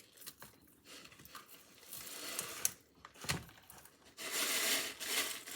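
Crinkling and rustling of hands at work, with scattered light clicks and a louder stretch of rustling about four seconds in, as whole Himalayan salt crystals are put on a brisket.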